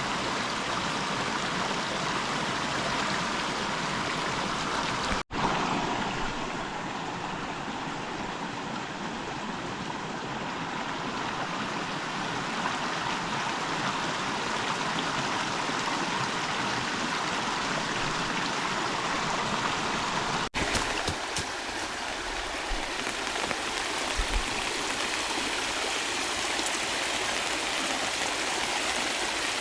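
River water rushing and gurgling steadily, cutting out for an instant twice, about five and twenty seconds in. A few low thumps sound about three-quarters of the way through.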